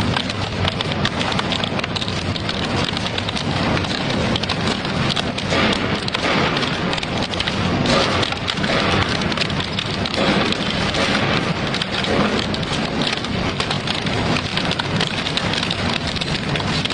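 Double-shaft shredder crunching and tearing metal, a dense, continuous crackle of snaps and cracks with no let-up.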